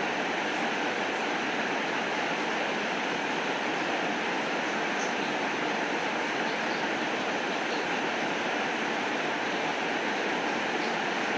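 Steady rain falling, an even hiss without pause, with a few faint high ticks here and there.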